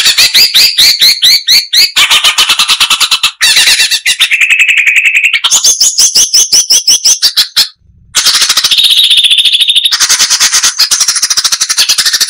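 Cucak cungkok (striated bulbul) singing a loud, dense song: rapid runs of sharp repeated notes and fast trills, broken by a short pause about eight seconds in.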